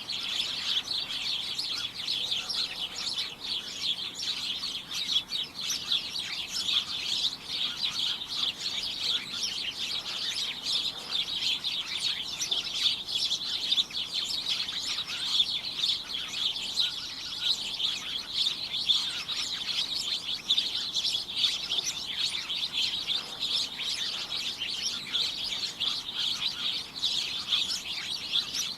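A flock of small birds chirping together in a dense, continuous chatter of short high chirps.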